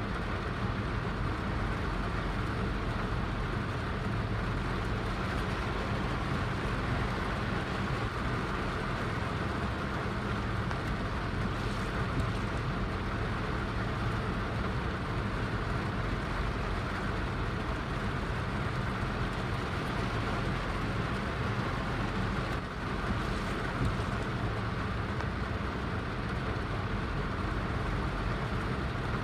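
Heavy rain falling steadily, a dense even hiss with a deep low rumble and no distinct drops standing out.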